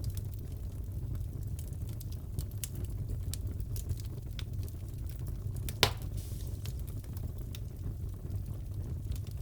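Crackling wood fire in a fireplace: a steady low rumble of burning with scattered small crackles and one sharper pop a little after halfway.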